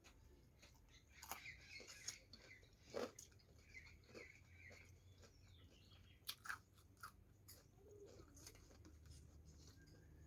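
Near silence with faint chewing and scattered mouth clicks of a person eating.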